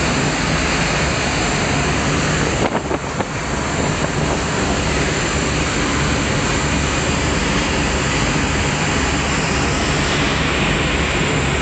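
A ferry's engines running steadily, heard from inside the stern: a loud, even drone with a low hum beneath it. The level dips briefly about three seconds in.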